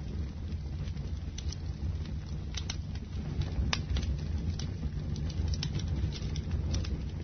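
Bonfire burning: a steady low rumble of flames with irregular sharp crackles and pops, several a second at times.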